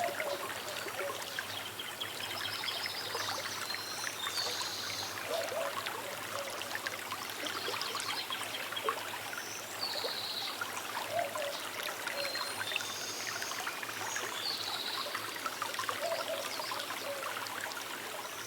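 Small river trickling and babbling steadily, with a bird's short call repeating every few seconds above the water.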